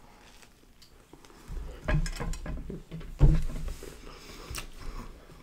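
Biting into and chewing a submarine sandwich close to the microphone: a few soft crunches and mouth clicks, with a low thump about three seconds in.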